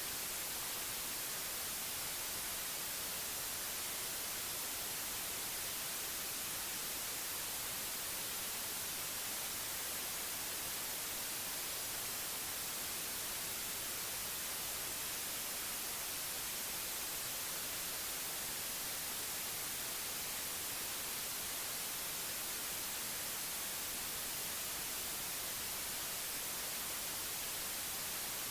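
Steady white noise: an even, unchanging hiss, brightest in the high end, with no variation.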